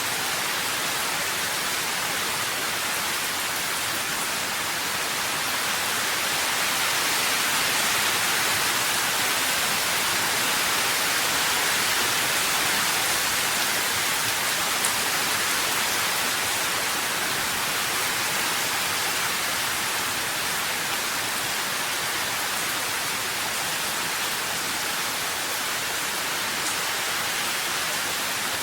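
Steady, dense rain falling, an even hiss with no separate drops standing out, swelling slightly louder in the middle and easing again.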